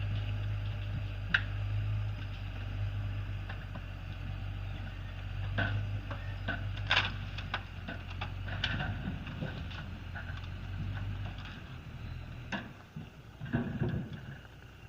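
A vehicle engine running with a steady low hum, with scattered clicks and knocks over it; the hum drops away about twelve seconds in.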